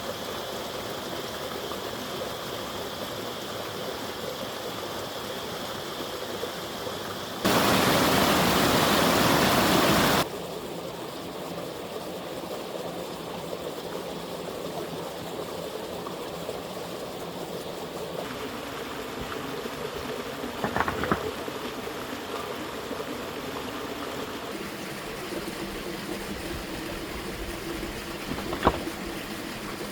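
Steady rushing noise like flowing water. About seven seconds in, a much louder rush starts abruptly, lasts close to three seconds and cuts off just as abruptly. There are a couple of short knocks near the end.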